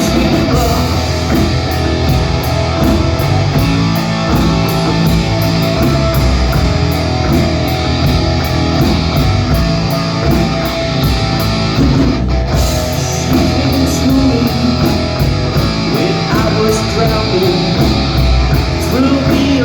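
Live rock band playing an instrumental passage between sung lines: guitar over bass and drums, with a steady beat.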